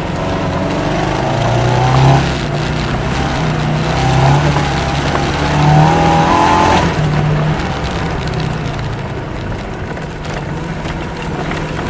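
Saab 96's V4 engine pulling hard up a muddy trial hill, its note surging up in pitch several times in the first seven seconds, then running steadier and lower.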